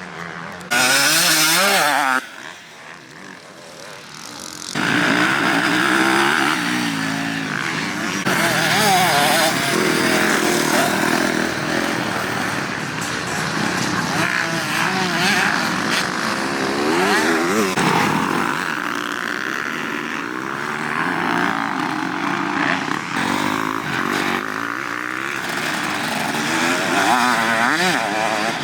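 Motocross dirt bike engines revving hard, rising and falling again and again as the riders accelerate and shift on the track. A loud burst about a second in gives way to a quieter stretch, and the revving runs on without a break from about five seconds in.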